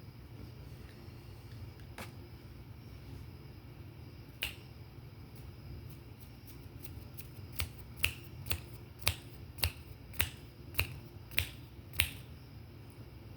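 A series of sharp clicks or snaps. A couple of single clicks and some faint quick ticks lead into about eight loud, evenly spaced clicks, a little over one a second, near the end.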